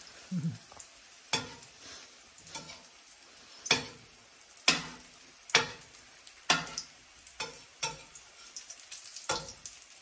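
Shrimp patties frying in oil in a stainless steel skillet: a sizzle under a string of sharp clicks and pops, roughly one a second, while a metal slotted spatula works the pan.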